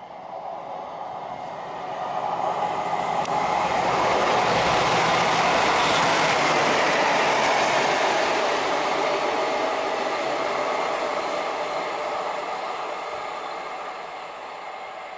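A train passing: its rumble and rail noise build over the first few seconds, are loudest in the middle and fade away toward the end.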